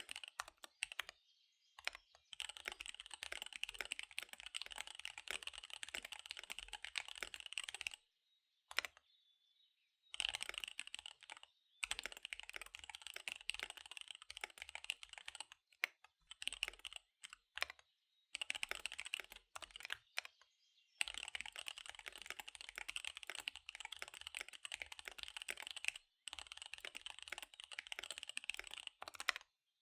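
Fast typing on a KBD75 V3 mechanical keyboard with SP-Star Dark Magic Girl tactile switches and DSA Magic Girl keycaps: dense runs of key clicks broken by a few short pauses, the longest lasting about two seconds.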